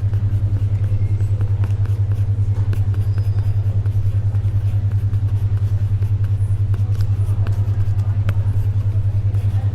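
A steady low hum pulsing at an even, fast rate: a 10.2 Hz alpha-wave brainwave beat. Under it is faint library ambience with scattered small clicks and taps of paper and pencil.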